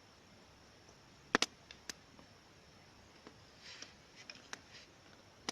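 Small fire of dry twigs just catching, giving a few scattered sharp snaps and pops, the loudest pair about a second and a half in, with softer faint ticks later.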